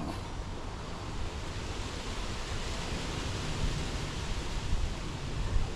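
Wind blowing across the microphone: a steady rushing hiss with a gusty low rumble.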